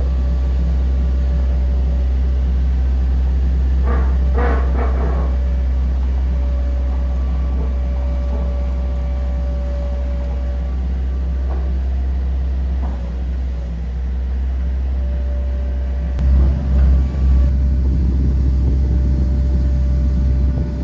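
Wind buffeting the microphone: a loud, steady low rumble, with heavier gusts about sixteen seconds in, over a faint steady hum.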